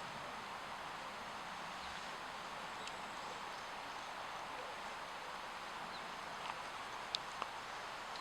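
Steady outdoor ambience, an even hiss, with a few faint clicks near the end.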